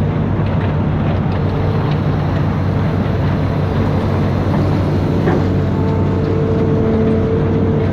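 Diesel engine of an amphibious excavator running steadily, a loud even drone with a held tone above it.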